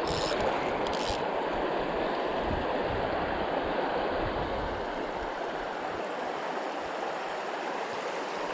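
Fast-flowing river water rushing steadily, with a low rumble underneath that fades about six seconds in and two short high hissing bursts in the first second.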